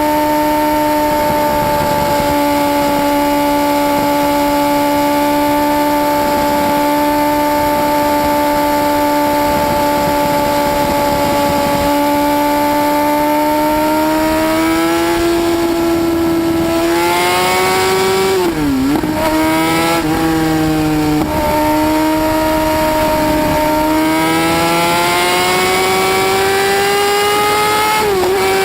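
Motorcycle engine running at high revs: one steady high-pitched note that begins climbing about halfway through. It dips briefly twice around two-thirds of the way in and once near the end, climbing again after each dip.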